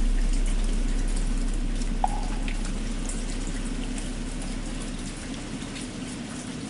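Steady rain pattering, with a low droning hum under it, all fading out gradually. A single short, light knock comes about two seconds in.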